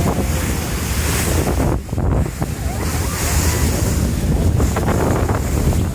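Wind buffeting the microphone aboard a moving sightseeing boat, over rushing water and a low, steady rumble.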